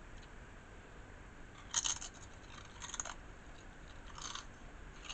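Mouth crunching crisp food, most likely tortilla chips, in four short crunches about a second apart.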